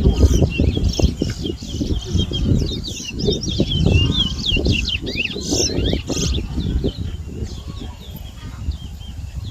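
Towa towa (chestnut-bellied seed finch) singing a long, fast run of high chirping, sliding whistle notes in a bird song competition. A heavy, uneven low rumble runs underneath.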